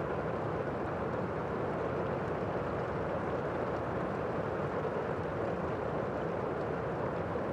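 Steady rain: an even, unbroken rushing noise, heaviest in the lower and middle range.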